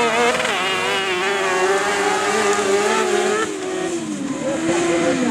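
Kart cross racing karts' motorcycle-derived engines revving hard, their pitch climbing and falling through gear changes and throttle lifts. About three and a half seconds in the sound dips and the pitch falls, then picks up again.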